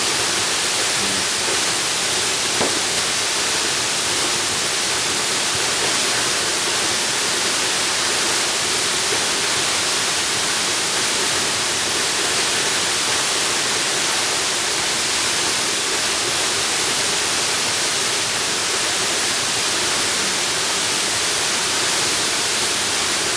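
Waterfall in a jungle: a steady, even rush of falling water.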